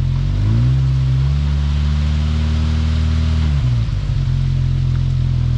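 Off-road vehicle's engine revving up about half a second in, holding the higher revs for about three seconds, then dropping back to idle. The driver is giving it throttle to bump the vehicle up an obstacle on a rock crawl.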